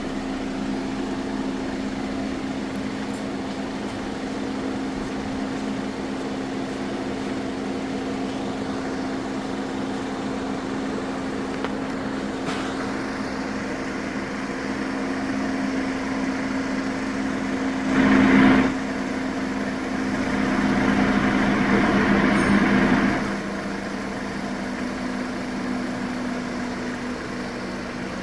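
An engine running steadily at idle, with a brief louder burst about eighteen seconds in and a louder stretch of a few seconds soon after.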